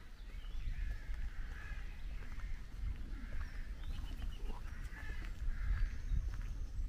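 Birds calling again and again over a steady low rumble.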